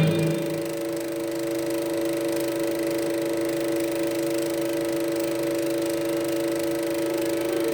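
A steady drone of a few held low tones from the Super 8 film's soundtrack, with constant hiss from the print's sound track.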